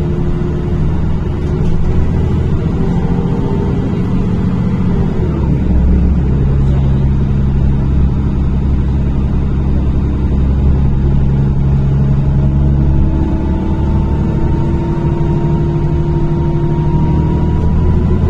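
NefAZ-5299 city bus under way, heard from inside the passenger cabin: a steady low engine and drivetrain drone, with a whine that rises in pitch as the bus gathers speed and drops away about five seconds in.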